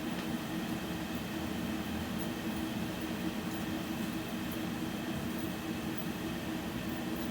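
Steady hum inside a BKM 60102 tram, heard from the passenger cabin, with its electrical equipment droning at a few low held tones over even running noise.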